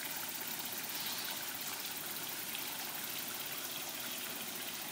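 Running water trickling steadily into a garden pond.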